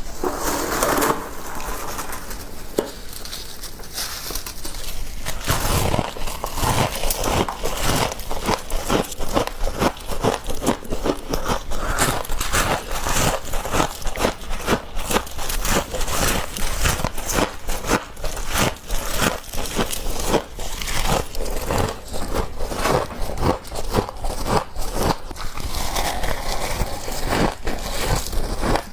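Fresh, fluffy humidifier frost being scooped up: a dense, continuous crunchy crackling, picking up from about six seconds in.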